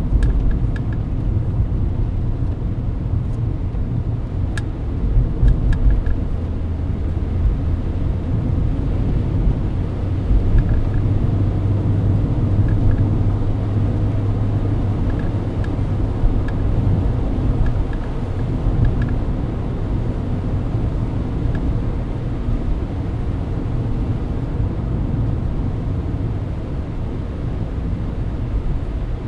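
Mercedes-Benz W124 cruising at highway speed in the rain: steady engine and road rumble with tyre noise on a wet road.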